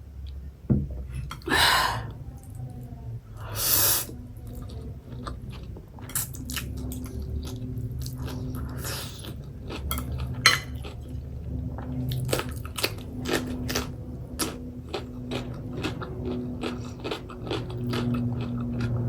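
A person chewing food close to the microphone: wet smacking and crunching mouth sounds. Two longer noisy rushes come in the first few seconds, followed by a dense run of sharp clicks and smacks.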